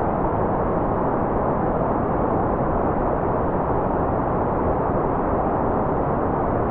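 White noise played as a steady, unchanging rush, muffled in tone: its energy sits in the lows and mids, with nothing up high.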